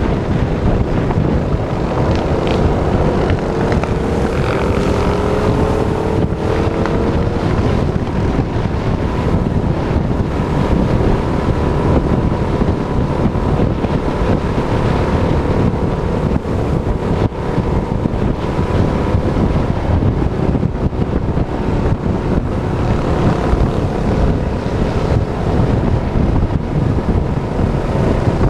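Heavy wind buffeting on the microphone over a small minibike engine running, its pitch climbing for a few seconds near the start as it speeds up.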